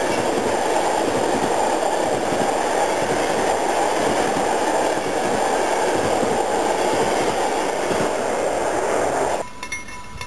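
Passenger coaches of an electric-locomotive-hauled train rolling past close by: a steady, loud rumble of wheels on rails. It cuts off suddenly about a second before the end, leaving a much quieter background with a few faint ticks.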